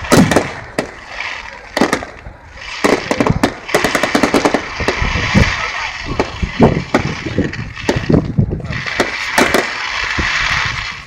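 Display fireworks going off: a string of sharp bangs and quick runs of crackling, over a hiss from the crowd and the bursts.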